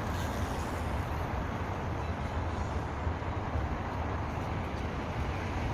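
Wind rushing over the microphone of a camera carried on a moving bicycle: a steady, fairly loud low rush with no tone or rhythm.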